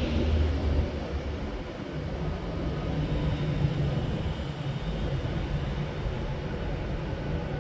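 Avanti West Coast express train moving through the platform close by: a steady low rumble as its coaches pass.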